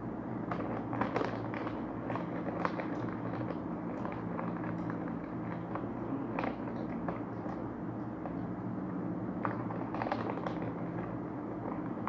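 Crisp corn snack being chewed: irregular crunches, a few every second or two, over a steady low hum.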